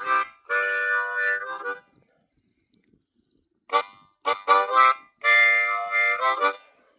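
Blues harmonica played in short phrases: a sharp note, a long held chord, a pause, a few quick short notes, then another long held chord.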